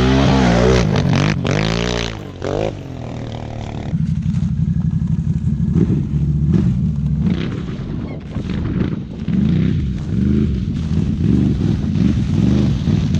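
Can-Am 1000 ATV's V-twin engine through an RJWC aftermarket exhaust, revving hard with quick rises and falls in pitch. About four seconds in it drops to lower, wavering revs that rise and fall as it rides on.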